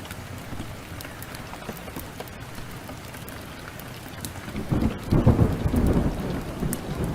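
Steady downpour of rain with scattered sharp ticks, then a roll of thunder rumbling in about two-thirds of the way through, loudest just after it begins and still rolling at the end.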